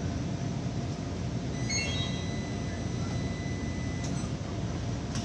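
Steady low mechanical rumble. About two seconds in comes a short rising run of electronic beep tones, then a thin high tone held for about two seconds.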